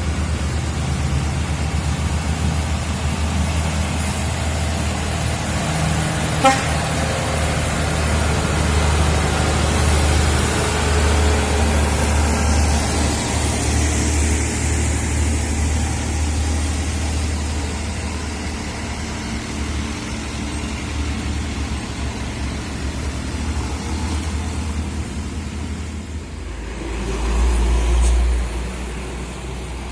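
Road vehicle engines and traffic: a steady low engine drone, with a single sharp click about six seconds in and a swell of deeper rumble near the end.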